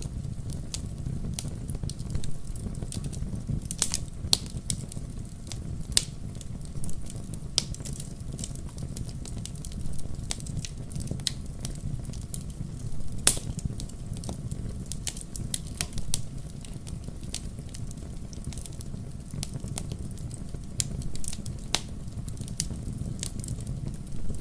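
Wood fire in a fireplace crackling: irregular sharp pops and snaps, the loudest about halfway through, over a steady low rumble.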